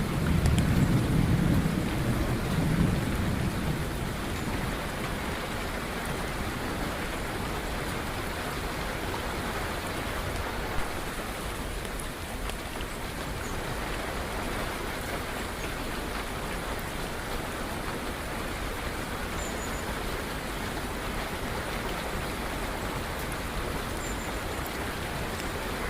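Steady rain falling, with a low roll of thunder dying away over the first few seconds. A couple of faint, short, high bird chirps come through the rain in the second half.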